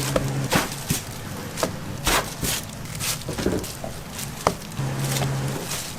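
Food-preparation clatter in a donut shop kitchen: irregular knocks and taps, about one or two a second, like dough or utensils worked on a hard surface. A low steady hum comes and goes.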